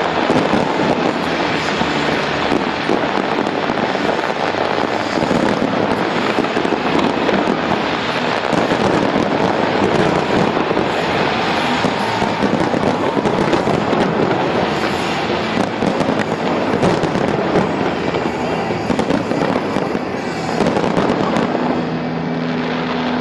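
Dense fireworks display: a continuous barrage of bangs and crackling shell bursts. Music with a held tone comes in near the end.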